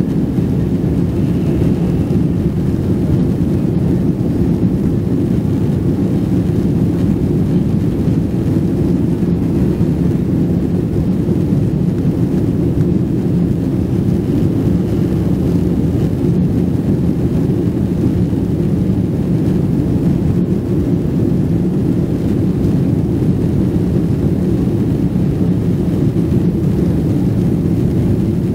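Steady low engine and airflow noise inside a jet airliner's passenger cabin.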